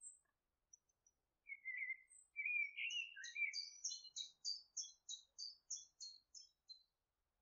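A bird singing faintly: a warbling phrase, then a long run of quick, high, repeated notes, about three a second, that stops shortly before the end.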